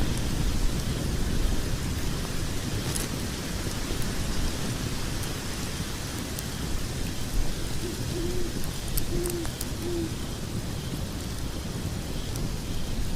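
Log fire burning in a fireplace: a steady hiss and low rumble with a few sharp crackles and pops. Three short, low hoot-like tones come about two-thirds of the way in.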